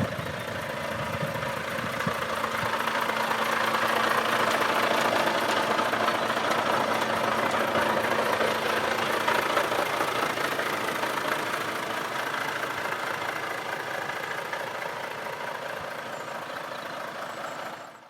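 Volvo FH13 truck's 13-litre six-cylinder diesel engine idling steadily. It grows louder over the first few seconds and then fades gradually.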